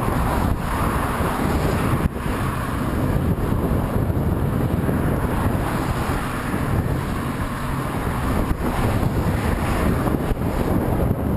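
Steady wind buffeting the microphone of a camera on the move, riding into a headwind, with a few brief knocks.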